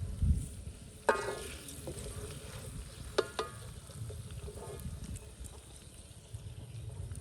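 Metal utensil clanking against a metal cooking pan while food is stirred or fried: two sharp ringing clanks about two seconds apart and a few softer knocks, over a steady low rumble.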